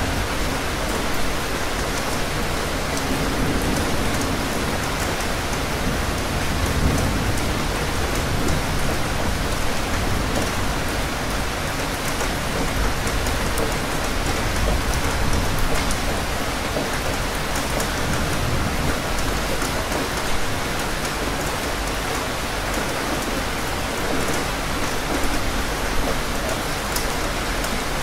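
Steady rain falling: an even hiss with scattered tiny drop ticks.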